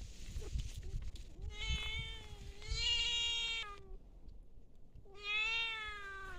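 An animal calling twice in long, drawn-out, pitched cries, the first lasting about two seconds and the second starting about five seconds in.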